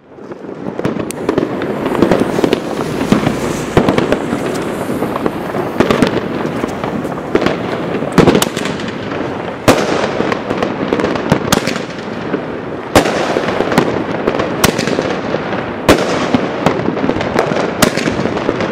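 Helios 'Excalibur' 36-shot firework battery firing. It starts abruptly, then sharp bangs come every second or two over a continuous noisy hiss.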